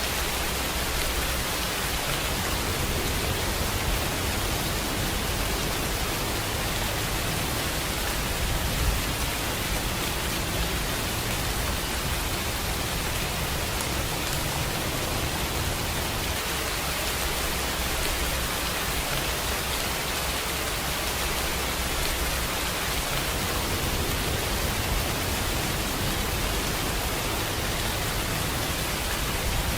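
Steady rainfall: a dense, even hiss with a few louder drop ticks, one about nine seconds in.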